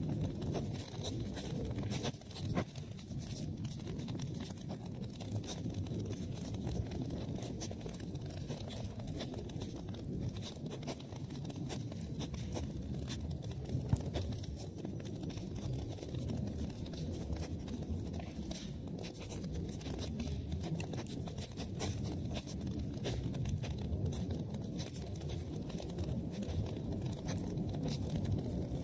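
Wood fire burning in a fireplace: a steady low rumble of flames with frequent crackles and pops, two of them louder, one a few seconds in and one about halfway.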